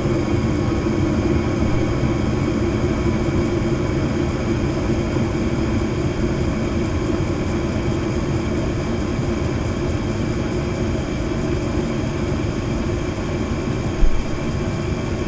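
Gas furnace running with its burners lit, a steady rumbling roar of burner flames and fan, showing that the new hot surface igniter has lit the furnace. A brief knock near the end.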